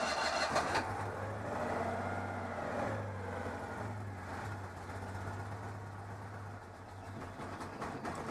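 Citroën 2CV's 602 cc air-cooled flat-twin engine on full choke just after starting: it runs busy and loud for the first second, then drops abruptly to a steady idle that eases slightly over the next few seconds. Heard from the driver's seat, this is the first test run of the freshly rebuilt engine.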